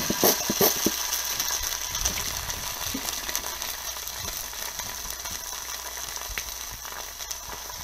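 Rice burger patties frying in oil in a frying pan: a steady sizzling hiss with fast, irregular crackles.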